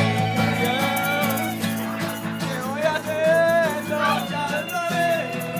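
Music: voices singing over guitar accompaniment.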